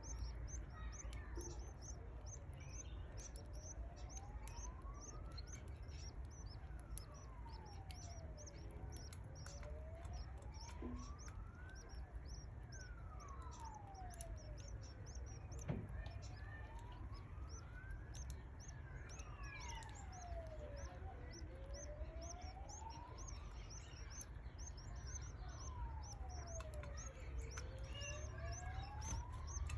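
Canary chicks cheeping, a rapid stream of high-pitched calls several times a second. Behind them a siren wails, rising and falling slowly about every six seconds, over a steady low hum.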